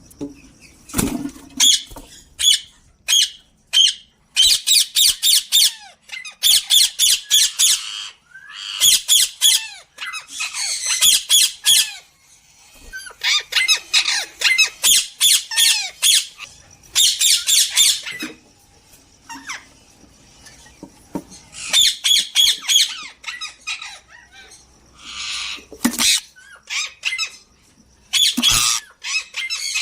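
Ringneck parrots squawking in repeated harsh, high-pitched bursts with short pauses between them.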